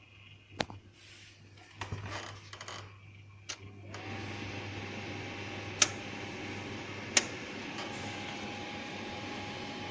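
A few clicks and handling knocks, then a small electric motor starts about four seconds in and runs steadily with a faint whine, which steps slightly higher in pitch shortly after the second of two sharp clicks.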